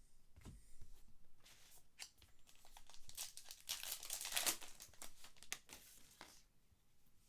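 Baseball card pack wrapper torn open and crinkled: a dense crackling that builds and is loudest about three to five seconds in, with scattered small clicks around it.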